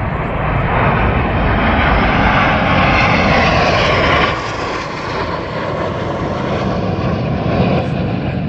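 Snowbirds' CT-114 Tutor jets flying past: a loud jet roar that builds over the first second, drops suddenly about four seconds in, then carries on lower with a faint sliding whine.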